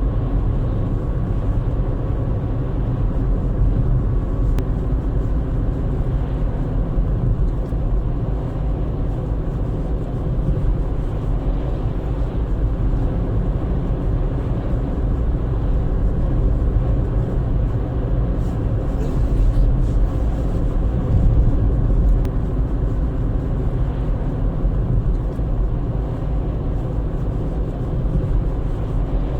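Car driving along a road: a steady drone of engine and tyre noise, with no sudden events.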